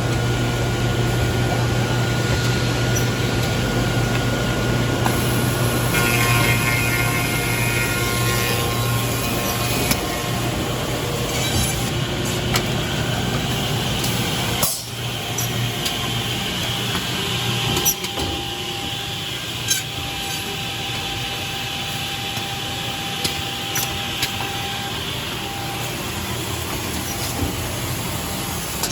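KDT KE-386 JHK edge banding machine running, a steady mechanical noise with a low hum and scattered short clicks. The sound changes about halfway through, the low hum dropping away.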